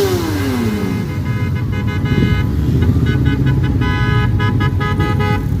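A motorcycle engine passing, its pitch falling through the first second over a low rumble of engines. Then vehicle horns honk in a run of short, repeated blasts until near the end.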